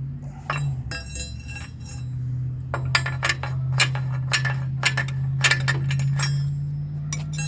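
Mini excavator's engine running steadily, with irregular sharp metallic clinks and clanks of metal parts knocking together, about one or two a second.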